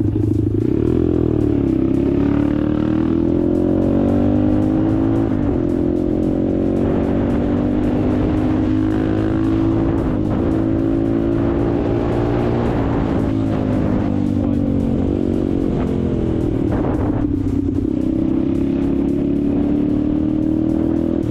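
A vehicle engine running under way, its pitch rising and falling slowly as the speed changes, over a steady low drone.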